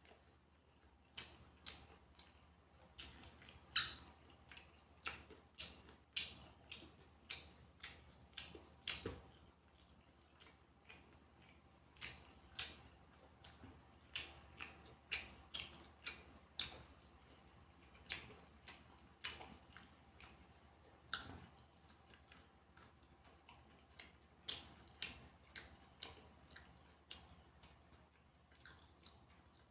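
Close-up eating sounds: chewing with sharp crunches and mouth clicks at an uneven pace, about two a second.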